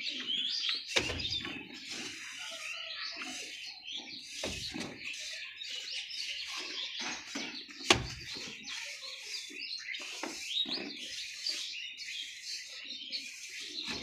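Small birds chirping busily and continually, with a few sharp knocks in between, the loudest about eight seconds in.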